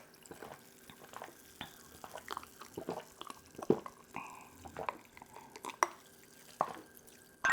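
Close-miked wet mouth sounds of eating and drinking: irregular smacks, slurps and swallows.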